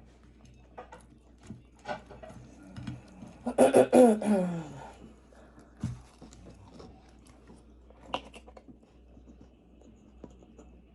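Close-miked eating of pepperoni pizza: soft chewing and mouth clicks, with a loud vocal sound from the eater, falling in pitch, about three and a half seconds in, and a few sharp clicks later on.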